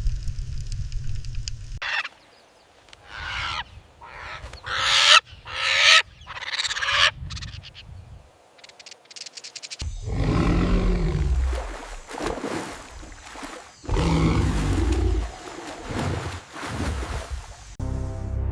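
A series of bird calls, in short separate bursts at first and longer, louder calls in the second half.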